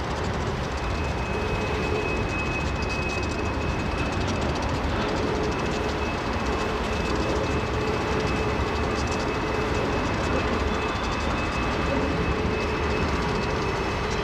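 Freight cars of a mixed freight train rolling past, a steady rumble of wheels on rail with a thin high whine running through it from about a second in.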